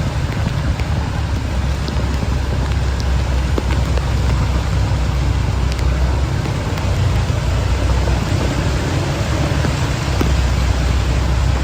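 Heavy rain falling steadily, with scattered drop ticks over a constant low rumble.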